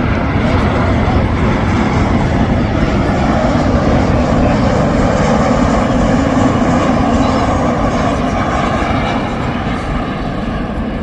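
Jet airliner passing close by, its engines loud and steady. The sound swells toward the middle and eases off in the last few seconds.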